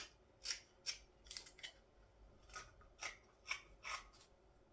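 Carving knife taking quick, short slicing cuts along the edges of a green-wood scoop: about a dozen brief shaving strokes at an uneven pace, cleaning up the edges at the end of carving.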